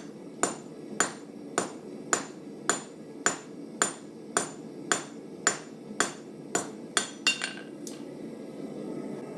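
Hand hammer striking hot 1084 steel on an anvil while forging a knife blade: about a dozen evenly paced ringing blows, just under two a second, ending with a quick pair about seven seconds in. A steady low rush runs underneath.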